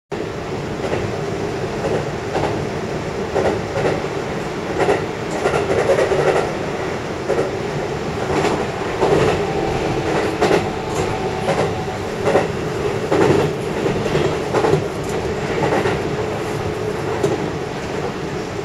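Keihan electric train running at speed, heard from inside behind the driver's cab: a steady running hum with repeated, irregular clacks of the wheels over rail joints and points.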